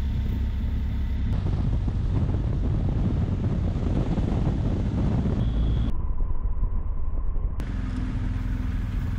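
BMW R 1250 GS Adventure boxer-twin motorcycle running on the road, its engine rumbling under rushing wind on the microphone. The sound changes abruptly a couple of times, as at cuts between clips.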